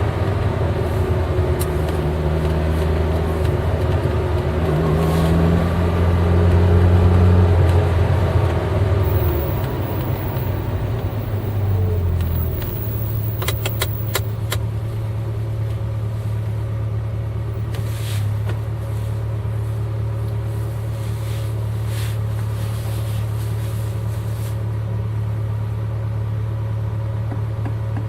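Eight-cylinder car engine running while the car is driven, loud and under throttle for about the first twelve seconds, then easing off to a steady, quieter drone. A quick run of clicks comes just after it eases off.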